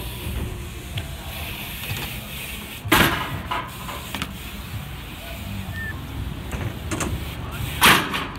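A BMX bike banging down hard twice, about five seconds apart: one loud bang about three seconds in and another near the end, with lighter clicks and rattles between.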